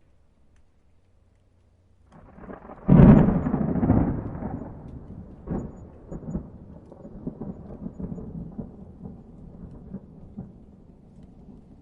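Thunder: near quiet, then about three seconds in a sharp loud crack of thunder that rolls on as a rumble with a few smaller cracks, slowly dying away.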